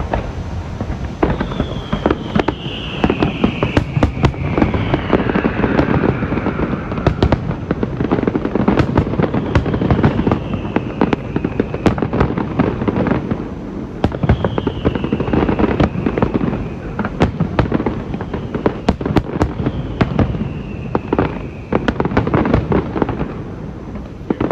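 Aerial fireworks display: a dense, continuous run of bangs and crackling, with several falling whistles one after another.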